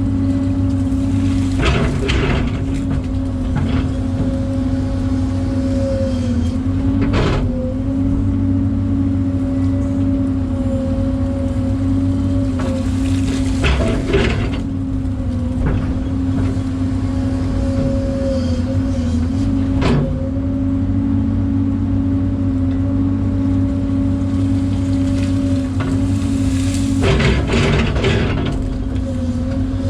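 Diesel engine of heavy equipment running steadily with a constant droning tone, and a few sharp clanks spread through.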